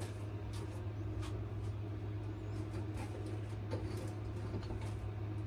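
Sandpaper rubbing on a wooden knife handle, hand-sanding in short, irregular scratchy strokes, over a steady low hum.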